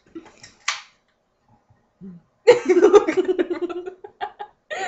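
Two short breathy hisses, then about two and a half seconds in a loud burst of a girl's wordless voice lasting over a second.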